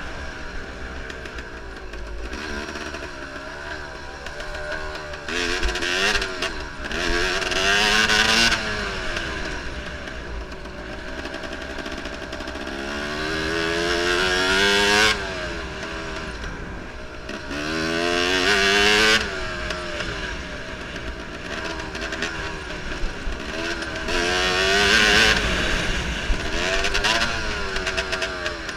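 Enduro motorcycle engine revving in repeated throttle sweeps, its pitch climbing under load and dropping back, four times; one sweep cuts off sharply about halfway through.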